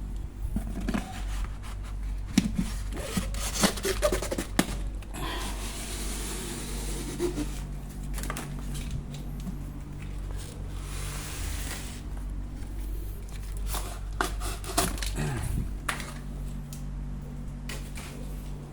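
Cardboard packaging being handled, with scattered knocks and rubbing and two longer stretches of tearing or scraping, over a steady low hum.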